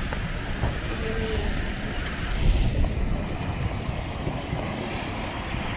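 City street noise of traffic during a snowstorm, with wind rumbling on the microphone.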